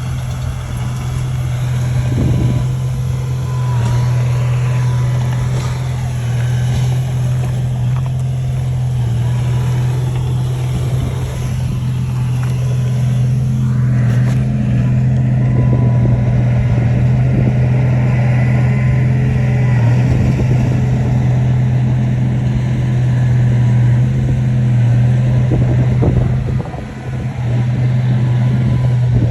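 Shantui bulldozer's diesel engine running with a steady low drone, dipping briefly near the end.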